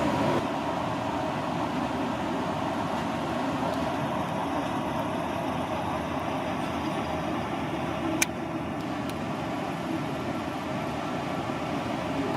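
Steady noise of a ship under way, with a faint steady hum in it and one sharp click about eight seconds in.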